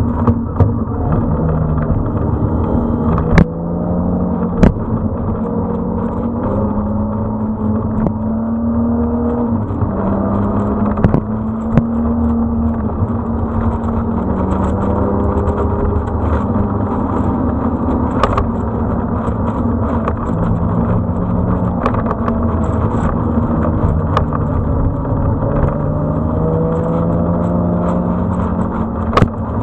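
Motorcycle engine running at road speed, its pitch climbing and dropping in steps with throttle and gear changes, over steady road and wind rumble. Two sharp knocks stand out a few seconds in.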